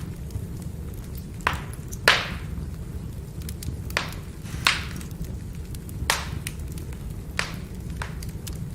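Firewood burning: a steady low rumble of the fire with about seven sharp crackles and pops, the loudest about two seconds in.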